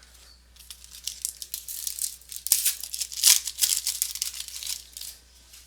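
Foil wrapper of a baseball card pack crinkling and tearing open, with the rustle and clicks of the cards being handled; it is busiest around the middle.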